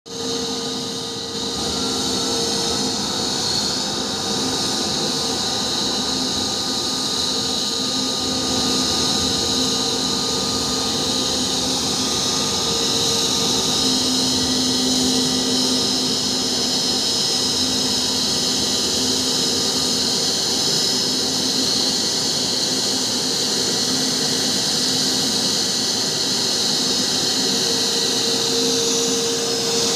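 Jet airliner's turbine engines running steadily: a constant whine with several held tones over a loud hiss that does not change.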